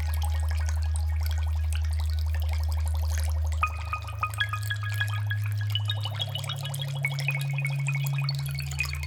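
Ambient music of sustained low synth drones over dripping, bubbling aquarium water. About four seconds in, a slow line of high held notes enters, while the low drones shift in pitch.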